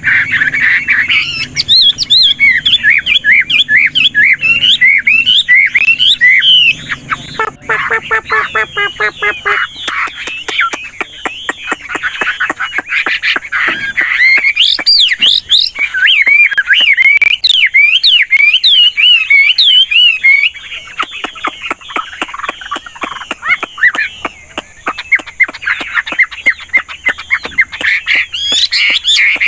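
Chinese hwamei (melodious laughingthrush) singing loudly and continuously, a varied song of fast whistled notes that swoop up and down and keep switching phrases.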